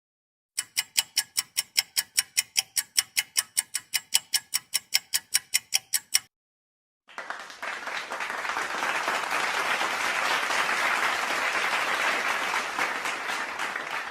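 Rapid, even ticking, a little over four ticks a second, that stops about six seconds in. After a short silence, applause starts.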